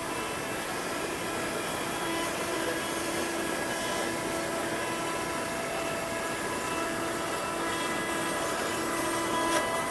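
CNC router spindle running and carving wood: a steady machine whine over a hiss of cutting noise, with a tone that comes and goes and a sharp click near the end.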